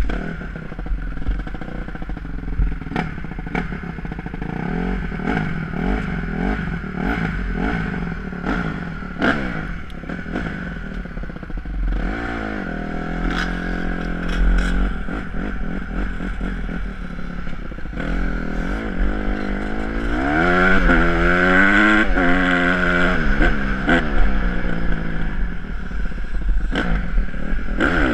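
Honda CRF150R four-stroke single-cylinder engine being ridden, its pitch rising and falling again and again as the throttle opens and closes and the gears change, with clattering knocks from the bike over the track. It is loudest in the last third, with long rising revs.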